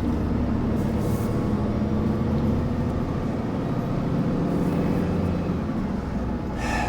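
Truck engine running steadily, heard from inside the cab, with road rumble underneath. There is a brief noise near the end.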